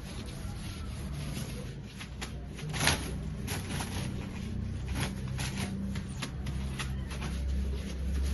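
Irregular clicks and knocks from objects being handled, the loudest about three seconds in, over a low steady hum.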